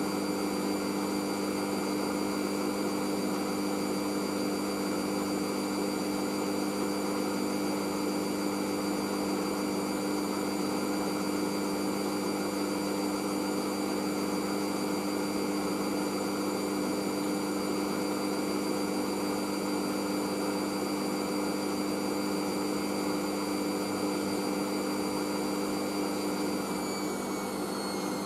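Hoover SIX washing machine spinning steadily in an intermediate spin, with a steady motor whine and drum hum. Near the end the whine starts to fall in pitch as the spin winds down.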